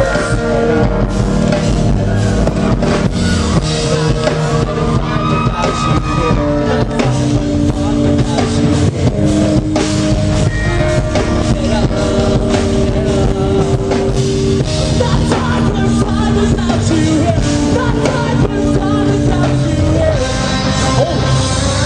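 A live rock band playing loud, with a drum kit and guitars.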